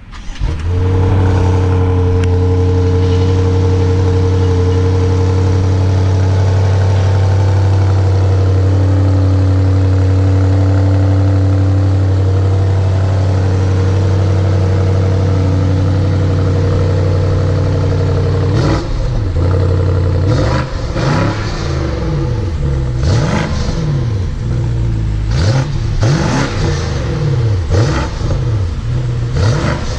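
Twin-turbo V8 of a 2018 BMW M550i xDrive, heard through its exhaust with the car standing still. It idles steadily for about eighteen seconds, then is revved repeatedly, the pitch rising and falling about once a second, with a few short sharp cracks among the revs.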